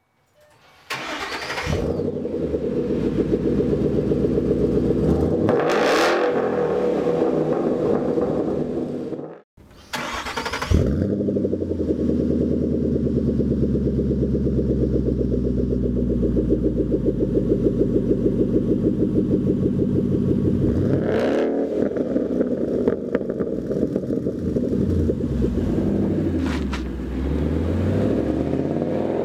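2013 Ford Mustang GT's 5.0 V8 through a Roush axle-back exhaust, starting up and settling into a steady idle, with a short rev a few seconds later. The recording cuts off and the engine is started again, then idles steadily with brief revs.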